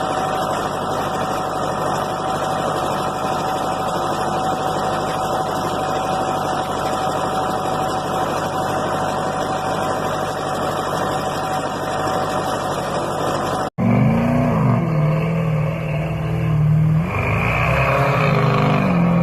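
A vehicle running with a steady noisy hum. About two-thirds of the way through it cuts off abruptly to an engine revving up and down a few times, then running steadily.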